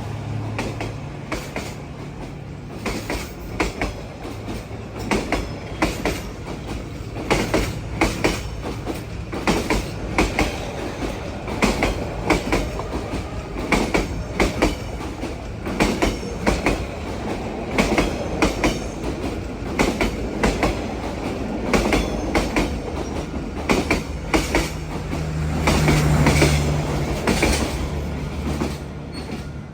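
A train rolling past, its wheels clacking rhythmically over the rail joints in pairs and groups above a steady rumble. A low engine drone is heard at the start and swells again near the end.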